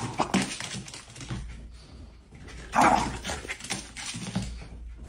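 A dog barking a few times, the loudest bark about three seconds in.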